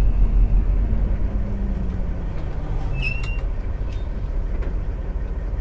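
Semi-truck cab interior: steady low rumble of the engine and road noise, the engine note sinking slightly over the first few seconds. A brief high squeak and a couple of light clicks about three seconds in.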